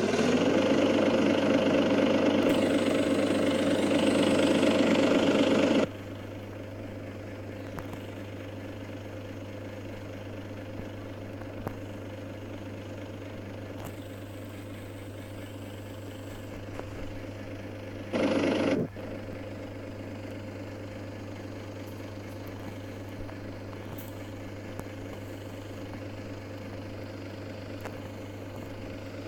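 Volvo truck engine running, loud for about the first six seconds, then settling to a steady idle with a constant low hum; a brief louder burst comes about eighteen seconds in.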